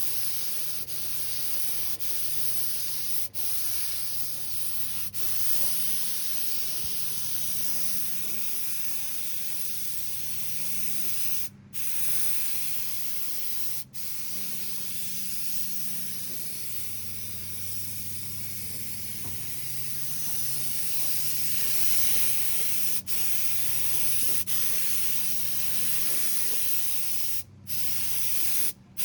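Compressed-air paint spray gun hissing steadily as it sprays paint, cutting out for a moment a few times when the trigger is let off, with a low hum underneath.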